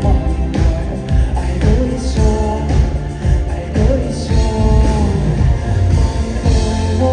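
A band playing live, with drums, bass and a singer's voice over them.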